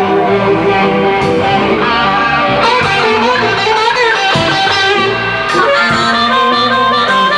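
A blues band playing live, with an electric guitar taking a lead over bass and rhythm.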